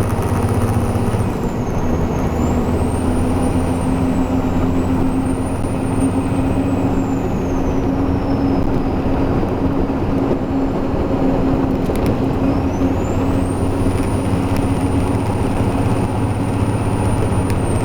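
Heavy truck's diesel engine running steadily under way, towing a B-train, with road noise and a faint high whine that rises and falls several times.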